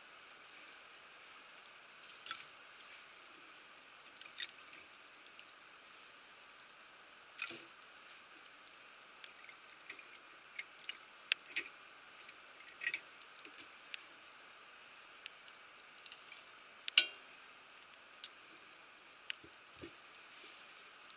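A wood fire crackling: irregular sharp cracks and pops over a faint steady hiss, with one louder pop near the end.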